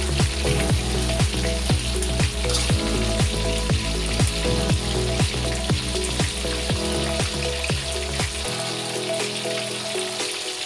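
Chicken pieces sizzling as they fry in hot oil in a steel wok, under background music with a steady beat whose bass drops out near the end.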